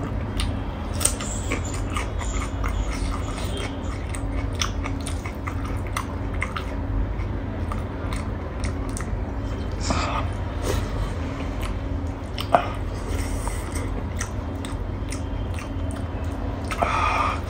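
A person chewing food close to the microphone, with many small wet mouth clicks, over a steady low hum. A short louder sound comes about ten seconds in and another near the end.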